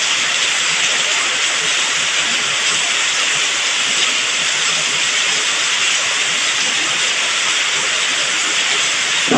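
Heavy tropical rain falling in a steady, loud downpour.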